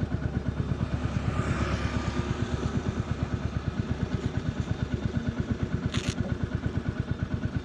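Royal Enfield single-cylinder 350 engine and exhaust running at low revs while riding, an even thump of roughly nine to ten beats a second. A brief sharp high sound cuts in about six seconds in.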